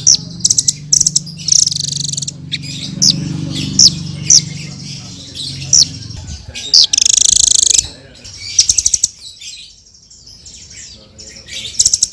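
Blue-crowned hanging parrot (srindit) calling: shrill high chirps and rapid buzzy trills in quick bursts, quieter for a couple of seconds near the end. A low steady hum runs underneath through the first half.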